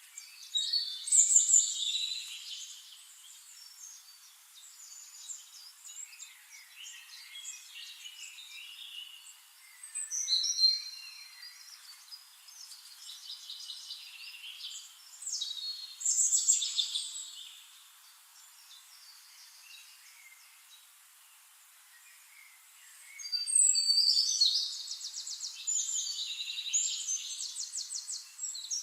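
Forest birds singing and calling, in separate loud phrases of song about a second in, around 10 and 16 seconds, and a longer run of rapid trills near the end, with quieter chirps between.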